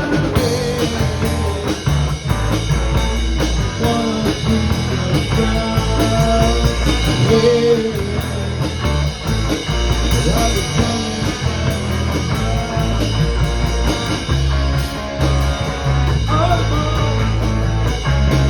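Rock band music: guitar lines over a steady bass and drum kit, with no clear vocal line.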